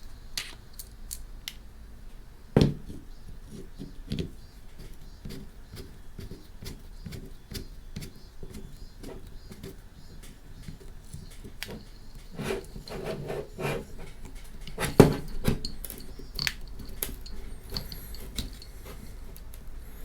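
Small hard camera-mount parts being handled on a surface, making irregular clicks and knocks. Two louder knocks come about two and a half seconds in and again about fifteen seconds in.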